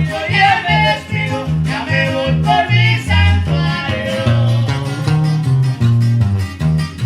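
A live norteña group playing a song: a singing voice over strummed string instruments and a moving bass line, the voice dropping out about halfway through while the band plays on.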